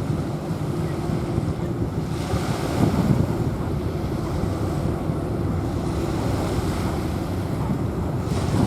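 Small waves washing onto a sandy beach, with wind rumbling on the microphone; a wave swishes in about two to three seconds in and again near the end.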